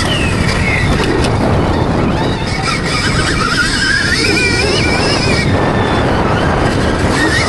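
A dirt bike being ridden, heavy wind noise on the microphone, and a wavering whine that climbs in pitch about halfway through.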